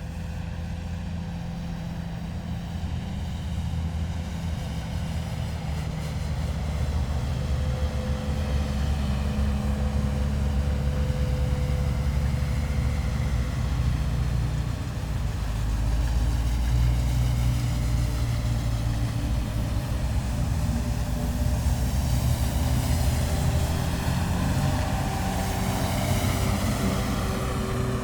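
A column of heavy military vehicles driving past, their engines making a dense low rumble with steady engine tones. It builds in loudness over the first several seconds, and the vehicles pass close by near the end.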